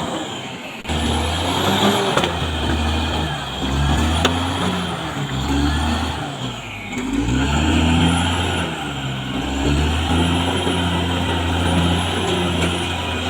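Caterpillar D6R XL bulldozer's diesel engine working, its pitch rising and falling as the load changes, with a brief drop just before a second in and another around the middle. A faint high whine rises and falls about every two seconds over it.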